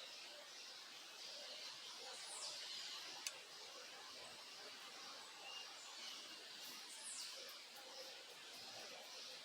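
Faint birdsong: scattered chirps and calls, including two short high calls that sweep downward, over a steady hiss. A single sharp click sounds about three seconds in.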